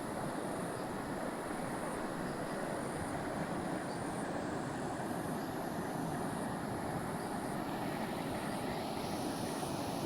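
Steady rushing noise of a flowing creek.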